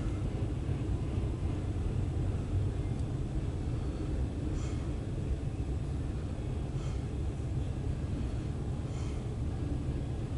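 Freight train passing with a steady low rumble and a faint click about every two seconds.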